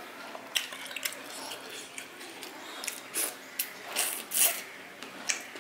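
Close-miked eating sounds: wet chewing and lip smacks of rice and fish curry, an irregular run of sharp little clicks, the loudest about four and a half seconds in.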